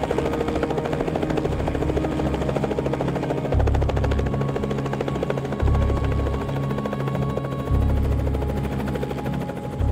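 Helicopter rotor chopping steadily under background music, with deep bass notes coming in about every two seconds.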